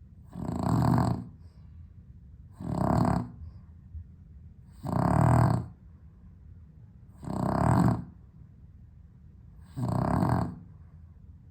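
A sleeping dog snoring in a regular rhythm: five loud snores, one about every two and a half seconds, each lasting about a second. The owner puts the snoring down to the dog's sleep apnea.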